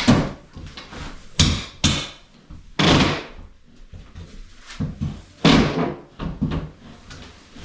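Irregular knocks and bangs from home repair work, about five loud ones, some drawn out like short scrapes.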